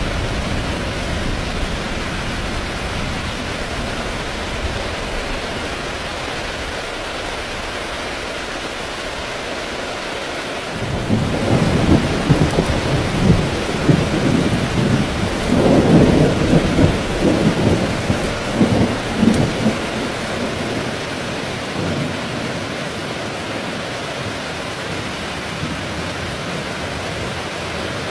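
Heavy rain falling steadily. About eleven seconds in, a long rumble of thunder swells up, rises and falls for roughly nine seconds, then dies back under the rain.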